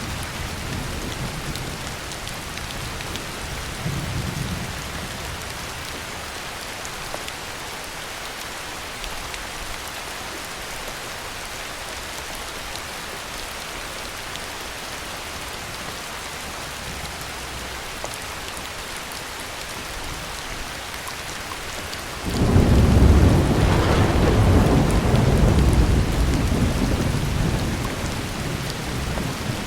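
Heavy rain falling steadily. About three-quarters of the way through, a thunderclap breaks suddenly and rumbles loudly for several seconds before easing off, and there is a fainter rumble of thunder early on.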